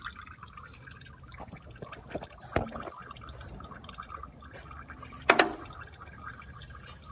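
Used engine oil draining in a steady stream from the oil pan's drain hole into a drain pan, with a few small clicks and one sharp knock about five seconds in.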